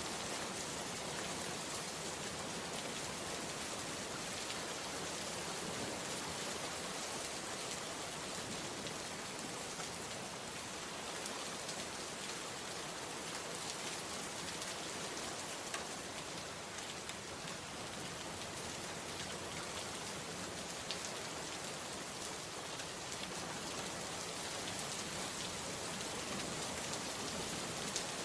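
Steady rain falling, a continuous even hiss with scattered faint ticks of individual drops striking a surface.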